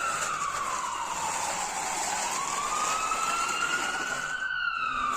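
Toy ambulance's electronic siren wailing: one tone glides slowly down, climbs back up over about two seconds, and starts falling again near the end.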